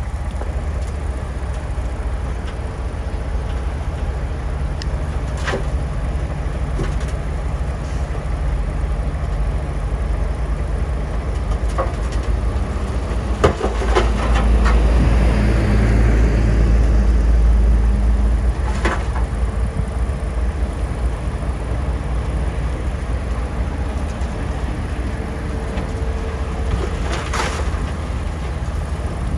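Bulldozer's heavy diesel engine running steadily, working harder and louder for a few seconds around the middle, with a few sharp metallic clanks.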